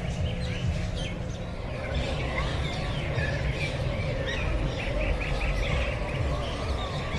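Many birds chirping and calling at once, with quick runs of repeated high notes in the second half, over a low steady rumble.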